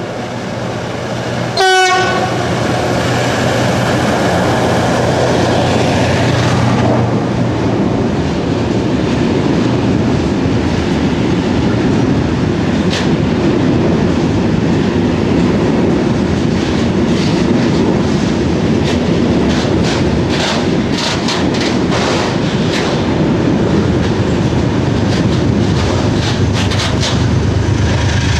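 A locomotive horn gives one short blast about two seconds in. A freight train of tank wagons then rolls past close by with a steady rumble of wheels on rail, and many sharp clacks from about halfway through as the wheels cross rail joints.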